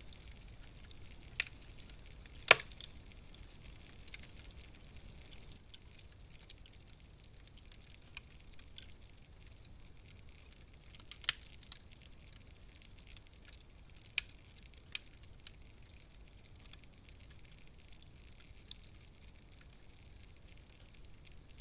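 Wood fire in a fireplace burning with a low steady hiss and scattered sharp crackles and pops, the loudest pop about two and a half seconds in.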